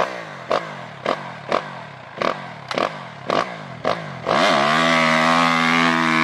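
Dirt bike engine with sharp regular pops about twice a second, then revved up about four seconds in and held at a steady high pitch.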